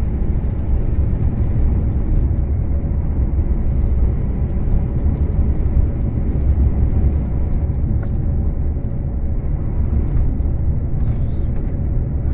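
Steady low drone of a truck engine and road rumble heard inside the cab while driving.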